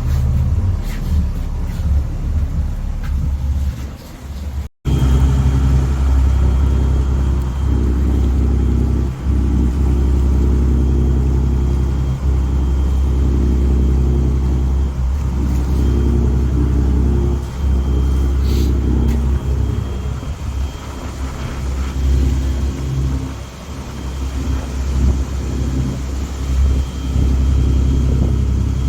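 Small passenger ferry's engine running steadily under way, a deep even hum. It cuts out abruptly for an instant about five seconds in.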